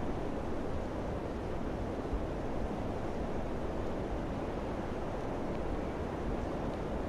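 Steady wind blowing, a constant low rushing noise with no distinct gusts or breaks.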